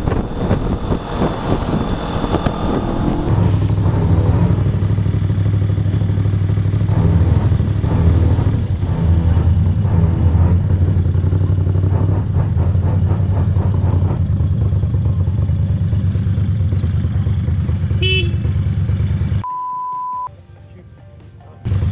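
Motorcycle riding on the road: wind rush on the helmet microphone at first, then the engine running steadily, with a short horn-like toot near the end. It is followed by a single steady censor bleep and a brief quiet gap.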